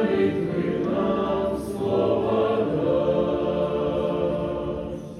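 Choir singing held chords, the sound dying away near the end.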